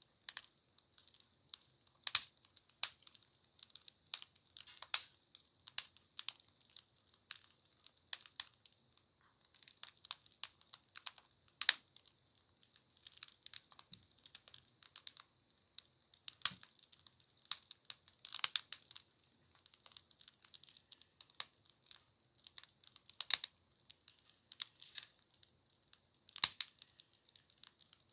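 Wood campfire crackling: irregular sharp pops and snaps over a soft hiss of burning.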